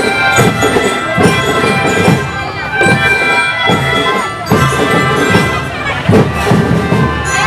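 A children's marching drum band playing a tune: drums beating steadily under sustained melody instruments.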